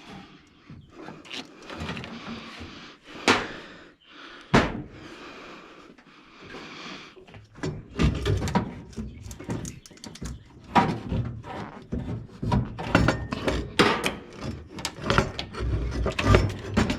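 Metal knocks and clanks of hand tools and engine parts being worked and handled during turbocharger removal: two sharp knocks a few seconds in, then a long stretch of dense clattering and heavy thuds in the second half.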